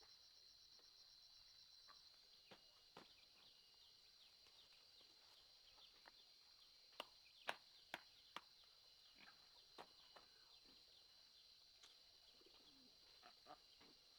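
Faint, steady, high-pitched chirring of insects in the countryside, with scattered light clicks or knocks; four sharper knocks come in quick succession about halfway through.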